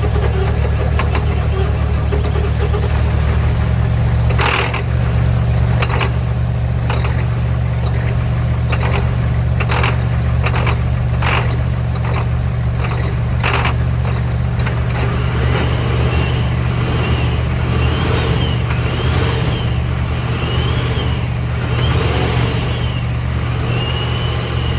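Ford 7.3 IDI V8 turbo diesel engine running steadily after sitting for years, with sharp knocks through the first half and a repeating rising-and-falling whine over the engine in the second half.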